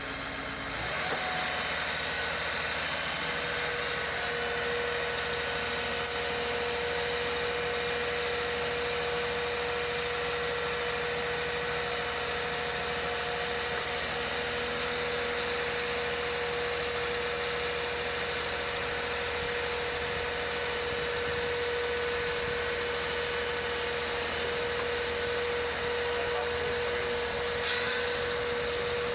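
A machine running steadily at constant speed, with a steady whine over a hiss.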